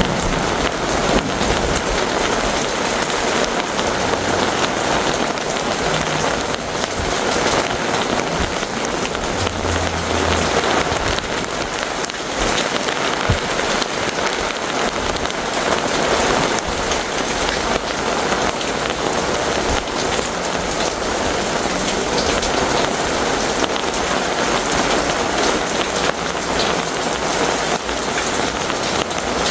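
Heavy rain pouring steadily in a thunderstorm, a dense even hiss of drops.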